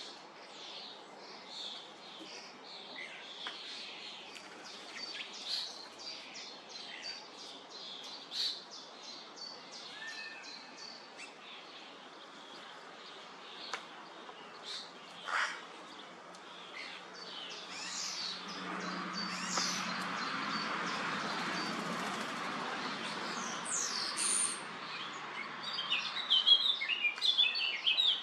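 Starlings chirping and calling again and again at a mealworm feeder. A steady rushing noise swells in after about two-thirds of the time and fades shortly before the end. In the last couple of seconds come loud, rapid, close-up calls.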